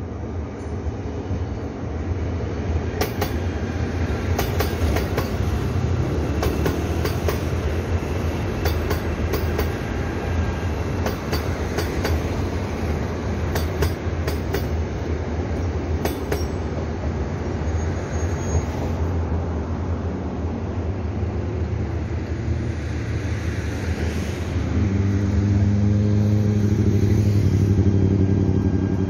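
KTX-Eum electric multiple-unit train running slowly past, its wheels rumbling and clicking in quick series over rail joints and turnouts for much of the time. Near the end a steady mechanical hum rises as a Korail electric locomotive moves off on a nearby track.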